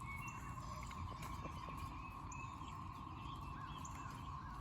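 Cicada chorus heard as a steady, even drone, the low, tunnel-like sound of many cicadas calling together. Scattered bird chirps and short whistles sound over it.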